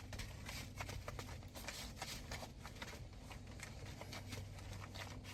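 Irregular rustling and small clicks from hands handling and fitting car-interior accessories, over a steady low hum.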